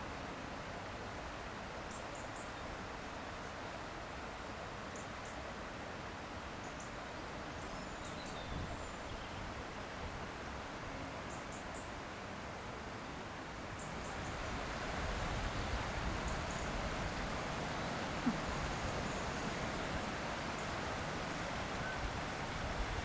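Short high bird chirps every few seconds over a steady rushing outdoor noise, which grows a little louder about two-thirds of the way through.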